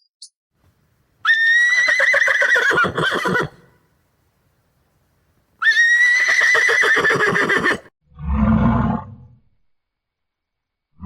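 A horse whinnying twice, each a long, wavering neigh of about two seconds, followed by a shorter, lower sound about eight seconds in.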